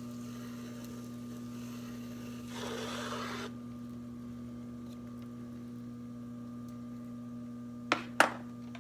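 Electric potter's wheel running with a steady hum. A brief scraping noise about two and a half seconds in, and two sharp clicks near the end.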